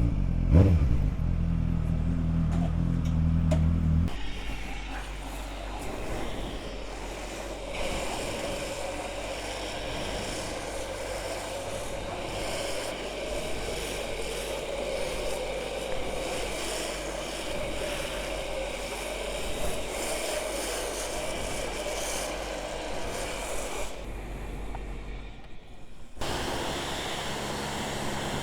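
Suzuki GSR 750's inline-four engine, breathing through an aftermarket Ixrace Z7 exhaust, running loud under throttle for the first few seconds. It then drops to a quieter, steady note for most of the rest. Near the end the sound cuts abruptly back to a louder engine note.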